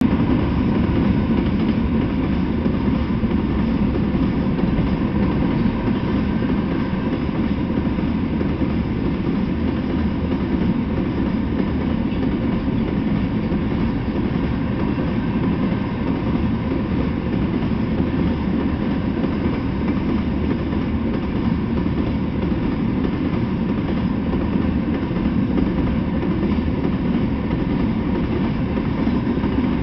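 Freight train of covered hopper cars rolling past on the rails: a steady, unbroken low rumble of steel wheels on track.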